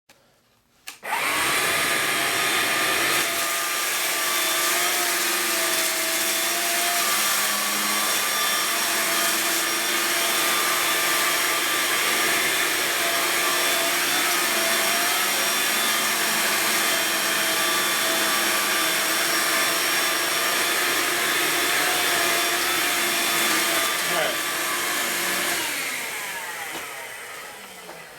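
Hoover Linx BH50010 cordless stick vacuum switching on about a second in and running steadily as it vacuums up sand, its motor and brush giving a steady whine with several held tones that wobble slightly. Near the end it switches off and winds down.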